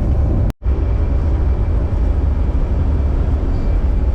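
Converted school bus driving at highway speed: a steady, loud low rumble of engine and road noise. The sound cuts out for a split second about half a second in, then carries on unchanged.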